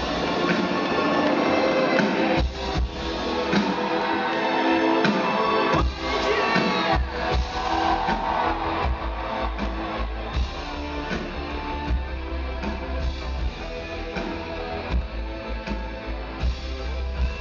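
Rock song with guitar and a full band, with heavy bass throughout.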